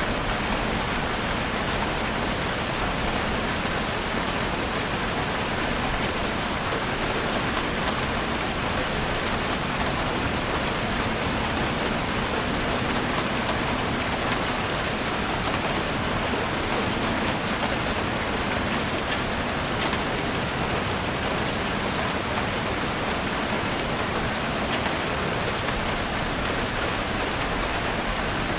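Heavy rain falling on a roof: a steady, dense hiss with many small sharp drop ticks scattered through it.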